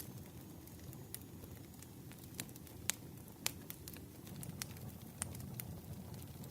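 Campfire crackling: irregular sharp pops and snaps over a low steady rush of burning wood, with the loudest pops about three seconds in and again half a second later.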